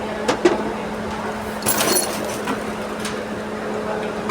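A few light clicks and a short ringing metallic clink, like tools or engine parts being handled, over a steady electrical hum.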